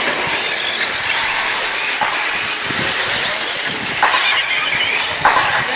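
Several battery-powered radio-controlled trucks racing on a track: a steady high whine from their motors with tyre noise, and a few short knocks from landings or hits.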